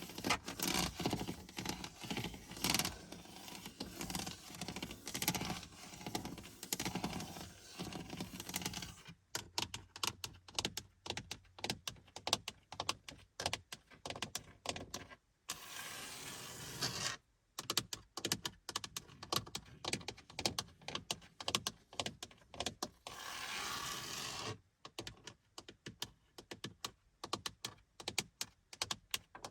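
Fingernails tapping and scratching on the hard surfaces of a car's interior. Quick taps come in dense runs, with a few stretches of continuous scratching in between.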